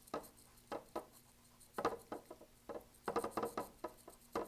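Paintbrush tapping and dabbing acrylic paint onto a stretched canvas: irregular soft taps, sparse at first, then coming quickly in clusters through the second half.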